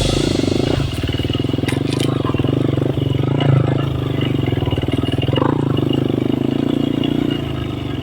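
Motorcycle engine running steadily, its firing pulses even, with no clear revving.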